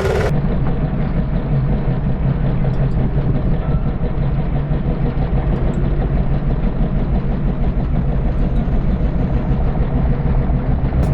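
Motorcycle engine running steadily with a low, even hum. A short change in the sound comes just after the start.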